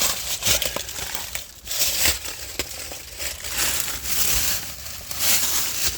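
Irregular crunching and rustling, like footsteps in dry forest leaf litter.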